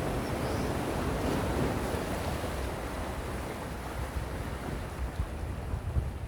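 Calm sea waves washing onto the shore: a steady wash of surf that swells in the first couple of seconds and then eases. Wind buffets the microphone with an uneven low rumble.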